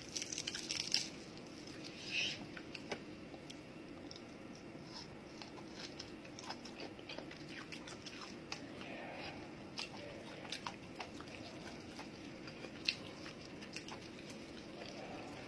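A person eating close to the microphone, biting and chewing with scattered crunches and wet clicks; the food is Korean-style pork-bone soup and kimchi. There is a dense bout of crunching in the first second and another at about two seconds, over a low steady hum.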